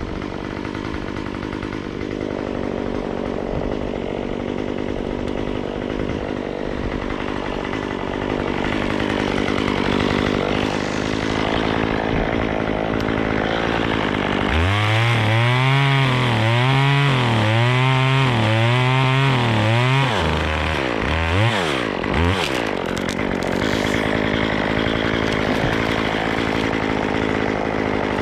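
Chainsaw running during tree cutting. For about five seconds past the middle its engine pitch rises and falls about once a second.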